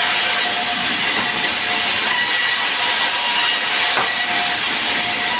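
Sawmill saw running with a steady, loud hiss and a faint whine.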